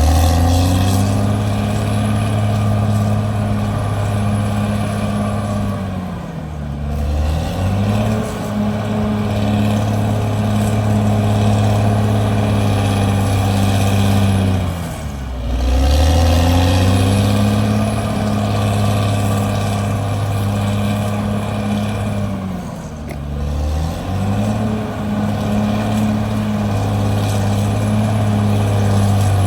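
CAT D6R bulldozer's diesel engine running hard and steadily. Its pitch sags and climbs back at the start and about every eight seconds after that, four times in all.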